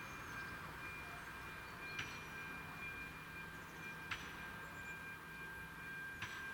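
Level crossing's electronic warning bell ringing: a steady high double tone with a sharp strike about every two seconds.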